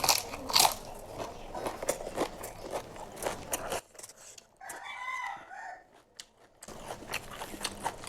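Close-miked chewing of a mouthful of biryani, with crisp crunching and wet mouth clicks. The chewing stops for about three seconds in the middle, and a short pitched call sounds in the pause, then the chewing resumes.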